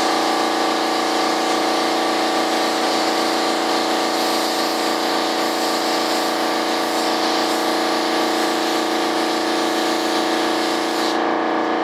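Paint spray gun hissing as primer is sprayed, over a steady mechanical hum; the spray hiss cuts off suddenly about a second before the end.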